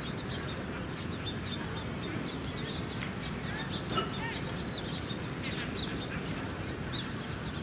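Small birds chirping repeatedly in short high notes and quick glides over a steady outdoor hum of distant traffic and city background.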